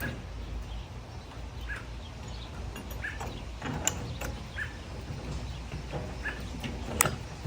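A bird chirping over and over, one short note every second or two, with two sharp clicks, the second about seven seconds in and louder, over a steady low rumble.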